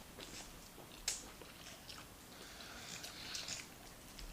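Close-miked chewing and mouth sounds of a person eating rice and stew: faint wet smacks and clicks, with one sharper click about a second in.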